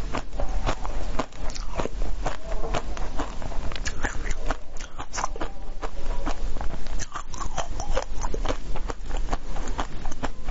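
Close-up crunchy biting and chewing of a coconut-coated purple ball, a dense run of irregular sharp crackles and crunches.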